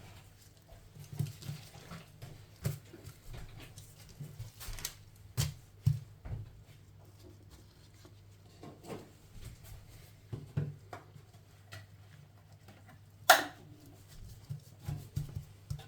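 Kitchen handling noises from preparing food: scattered light knocks and clicks over a steady low hum, with one sharp, louder short sound about 13 seconds in.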